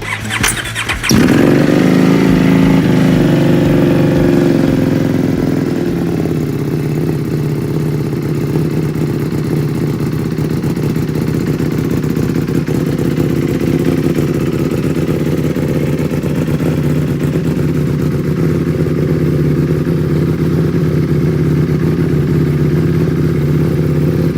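EBR 1190RX superbike's 1190 cc V-twin through an SC Project exhaust, cranked on the starter and catching about a second in. It runs loud at a fast idle that settles over the next few seconds into a steady idle.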